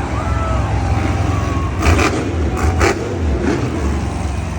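Monster truck engine running with a loud, deep rumble, with two short bursts of harsher noise about two seconds in and again just before three seconds.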